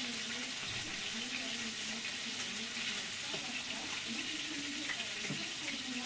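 Onions and tomatoes frying in hot oil in a pot: a steady sizzle with small crackles.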